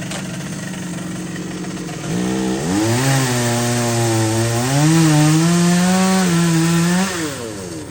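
Chainsaw engine running steadily, then revved up about two seconds in and held at high speed, its pitch sagging and recovering as it cuts wood, before dropping back near the end.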